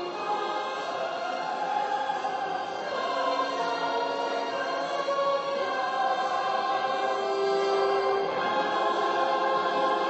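Choral music: a choir singing long held notes that shift in pitch every second or two.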